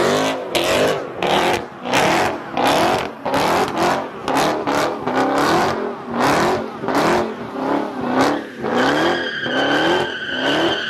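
A car engine revved hard over and over in quick rising blips, roughly once a second. Near the end a steady high tyre squeal sets in as the tyres spin.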